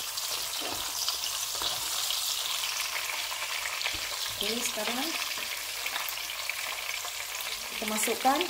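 Whole shallots and green chillies sizzling in hot oil in a wok, stirred and scraped around with a spatula.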